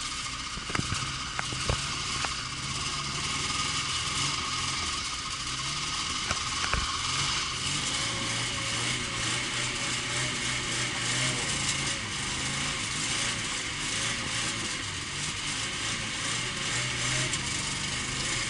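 A Lada Zhiguli's engine running steadily at idle, with a few sharp clicks in the first couple of seconds.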